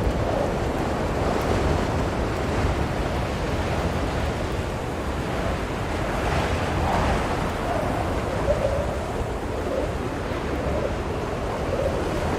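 Blizzard wind blowing steadily, a dense rushing noise with a faint howl that wavers and comes and goes in gusts.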